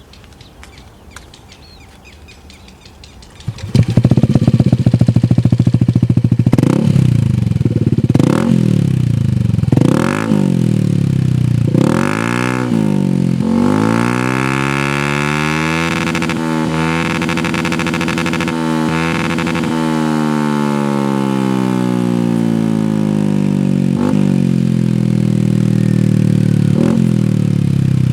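Yamaha Aerox 155 scooter's single-cylinder engine through an aftermarket Akrapovic exhaust, coming in about four seconds in and idling. It is revved in several quick blips, then held at high revs for a few seconds and let fall slowly back to idle, with two more short blips near the end.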